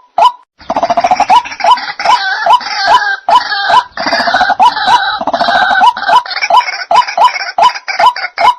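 White-breasted waterhen (ruak-ruak) calls played as a bird-trapping lure: short repeated notes, about three a second. From just under a second in, a louder, denser stretch of overlapping calls takes over, then gives way to the repeated notes again near the end.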